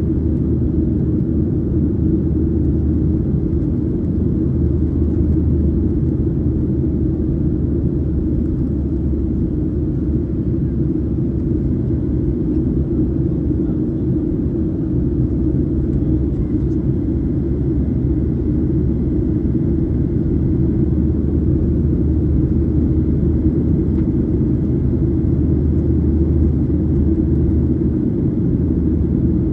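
Steady low drone inside the cabin of a Boeing 737-800 in flight: engine and airflow noise, unchanging throughout.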